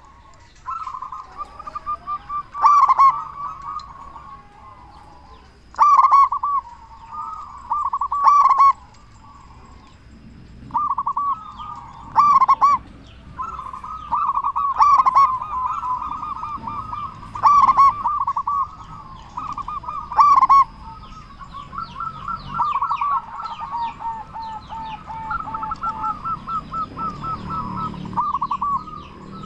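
Zebra doves (perkutut) cooing: a male in full song repeats a loud, deep, rolling coo phrase every few seconds, while other doves keep up softer overlapping coos between his phrases.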